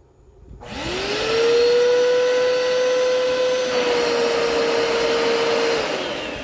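Hoover Power Scrub carpet cleaner's motor starting: it spins up with a quickly rising whine, runs steadily for about five seconds, then winds down near the end. It runs smoothly and sounds alright.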